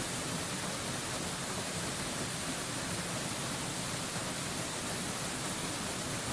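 Waterfall rushing in a steady, unbroken hiss that spreads from low to high pitch, with no changes in level or pattern.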